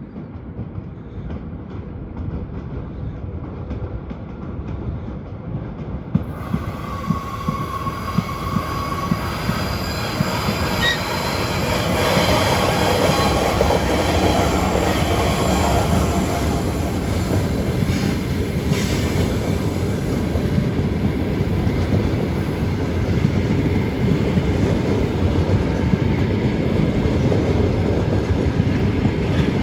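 ChS7 electric locomotive with a passenger train moving along the track: steady rumble and wheel clatter over rail joints, growing louder over the first dozen seconds and then holding, with a brief high tone about seven seconds in.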